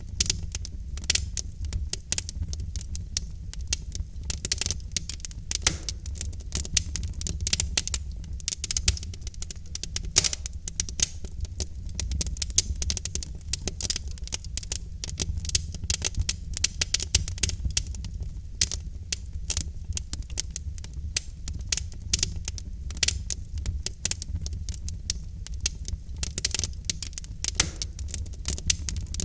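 Wood fire in a fireplace crackling continuously: dense, irregular snaps and pops from the burning logs over a low steady rumble of the flames.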